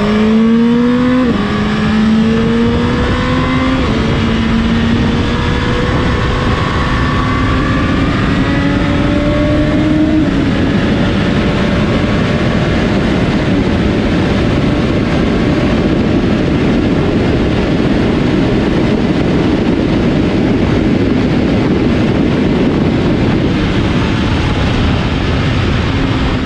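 Suzuki Hayabusa's 1,340 cc inline-four engine accelerating hard, its pitch climbing and dropping at each upshift, about a second in, about four seconds in and about ten seconds in. After that it holds a steady high-speed run under loud rushing noise.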